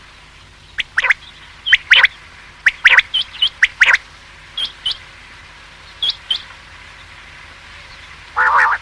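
Common quail calling: short, sharp notes that sweep downward in pitch, given in quick groups of two or three with pauses between, and a rougher, buzzier call near the end.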